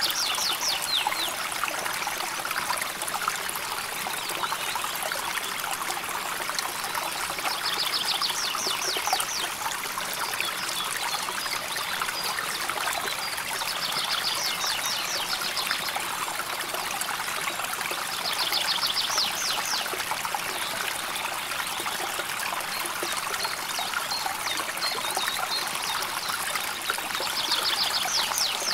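River water flowing steadily over stones, a continuous trickling rush. A short, high, rapid trill rises above it five times, roughly every five to six seconds.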